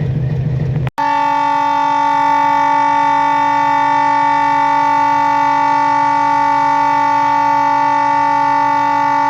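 YDM-4 diesel locomotive's air horn sounding one long, steady blast of about eight seconds, a chord of several tones. It starts about a second in, after low engine rumble that breaks off abruptly.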